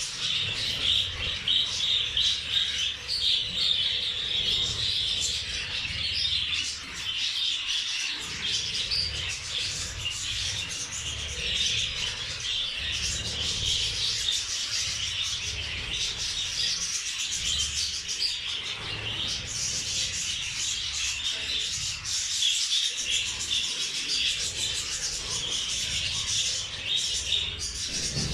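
A flock of budgerigars chattering continuously, a dense overlapping warble of chirps.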